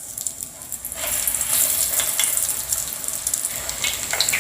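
Breadcrumb-coated chicken donuts going into hot coconut oil in a frying pan, the oil sizzling with many small crackles. The sizzle grows louder about a second in as the pieces go in.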